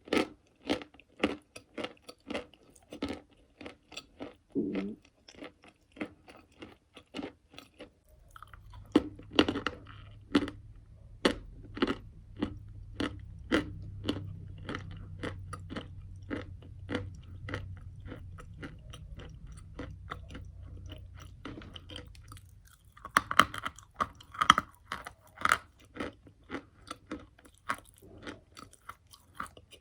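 Chewing and biting pieces of chalk and clay close to the microphone: a steady run of sharp crunches, about two to three a second.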